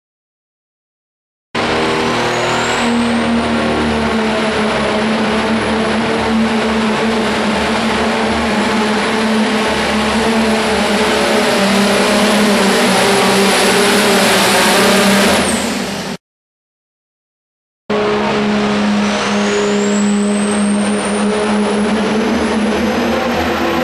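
Turbocharged pro stock diesel pickup trucks pulling a sled at full throttle: a loud, steady engine run with a high turbo whistle that rises and then holds. It cuts off suddenly, and after a short silence a second run begins with the whistle climbing again.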